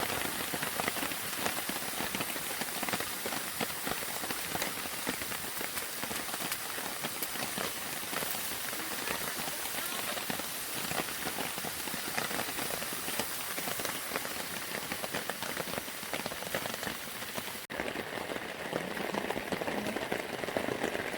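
Steady rain falling on surfaces, a dense hiss of many small drop ticks, which cuts out for an instant near the end.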